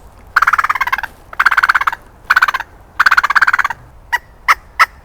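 Loud animal calls: four rapid rattling bursts in the first few seconds, then a run of short, sharp calls about three a second.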